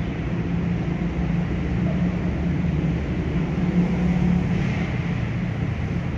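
Siemens C651 electric train approaching on elevated track: a steady low rumble with a hum.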